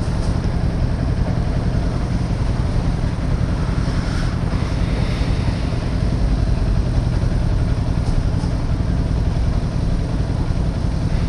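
Kawasaki Ninja 400's parallel-twin engine running at steady revs, with a haze of wind and road noise.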